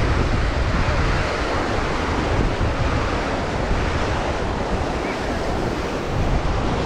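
Atlantic surf washing onto a sandy beach, a steady rushing noise, with wind buffeting the microphone in a low rumble.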